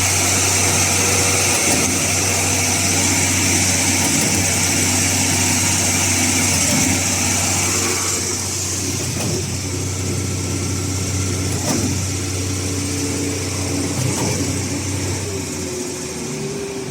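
Concrete mixer pump's engine running steadily with a low hum. It gets somewhat quieter about halfway through and eases further near the end.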